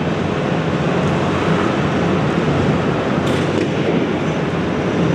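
Speedway motorcycles racing, their 500 cc single-cylinder methanol engines running at high revs in a steady, loud drone.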